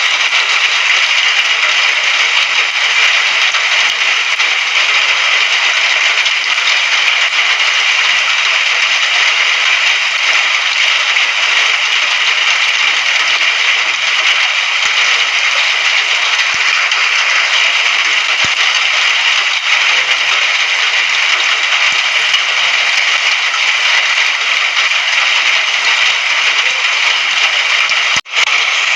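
Steady rain, an even hiss with a crackly patter, cutting out for an instant near the end.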